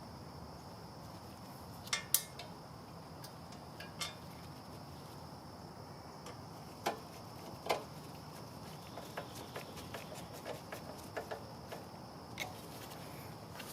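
Scattered light clicks and clinks, a few single ones and then a run of small ticks, over a faint steady background hum.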